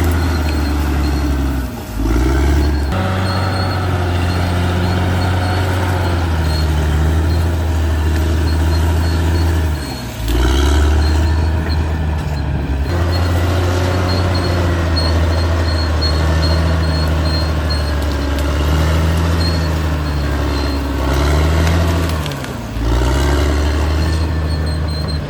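Caterpillar D6R XL bulldozer's diesel engine running steadily under load. Its note dips and recovers briefly three times, about 2, 10 and 23 seconds in.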